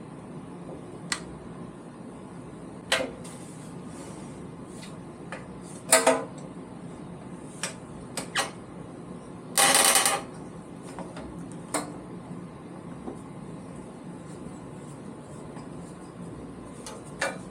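Scattered knocks and clicks of wood and metal parts being handled and fitted on a Shopsmith lathe's mandrel, with one longer scraping rattle about ten seconds in, over a steady low hum.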